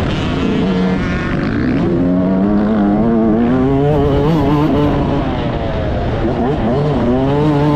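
2022 Yamaha YZ125's single-cylinder two-stroke engine under load from an onboard mount, its pitch climbing and dropping several times as the throttle is worked.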